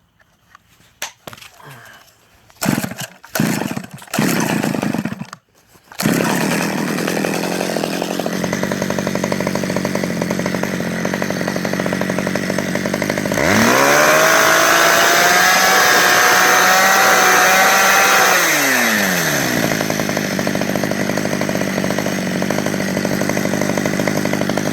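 Stihl 009 two-stroke chainsaw being pull-started after its carburetor was cleaned. It fires in a few short bursts, then catches about six seconds in and settles to an idle. It is revved up for about five seconds in the middle and drops back to idle, running steadily enough to count as repaired.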